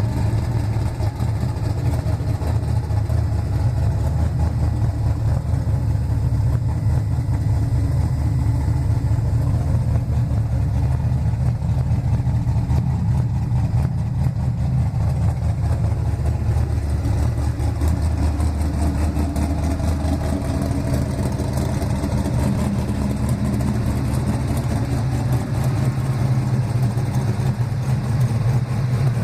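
Nissan Silvia engine idling with a steady, deep, snoring note.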